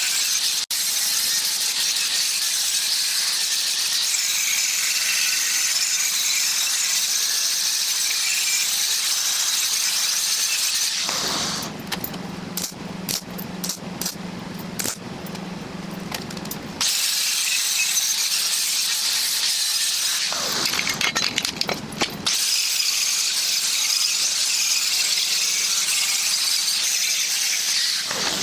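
Angle grinder grinding steel with a loud, steady high-pitched hiss, stopping briefly about 11 seconds in and again about 20 seconds in before starting up again.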